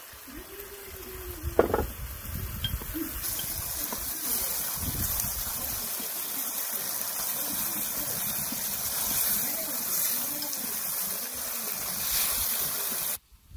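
Chopped tomatoes and onions sizzling in oil in a pan as a wooden spoon stirs them. A sharp knock comes about two seconds in; the steady sizzle sets in about three seconds in and cuts off abruptly near the end.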